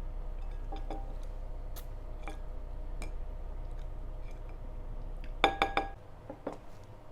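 Dishes and cutlery clinking while eating: scattered small clicks, then a quick run of about four ringing clinks about five and a half seconds in, with a couple more just after. A low steady hum stops about six seconds in.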